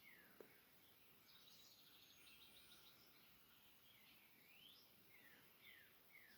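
Faint birdsong: repeated short falling chirps, a quick trill of notes about one and a half to three seconds in, and a thin high whistle, over a soft background hiss.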